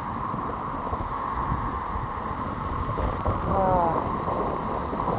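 Wind buffeting the microphone in uneven gusts over a steady hiss of road traffic.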